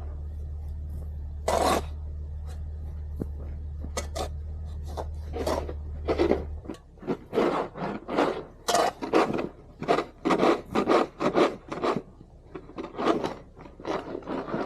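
A snow shovel scraping along the driveway in repeated strokes, coming faster, about two a second, in the second half. Under the first half a low engine hum runs and then cuts off suddenly.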